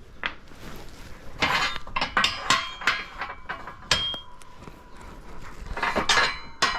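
Steel gearbox parts of a Honda K-series transmission clinking and knocking together as gears are worked onto the shaft: a run of irregular sharp metallic taps, some with a brief ring.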